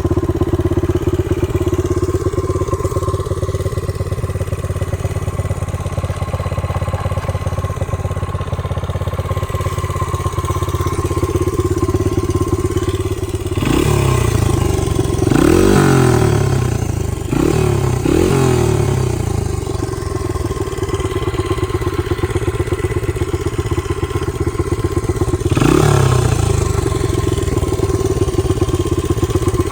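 The 1989 Honda XR100R's small air-cooled single-cylinder four-stroke engine is idling steadily, freshly started. About halfway through the throttle is blipped three or four times in quick succession, and once more near the end, each rev rising and falling back to idle.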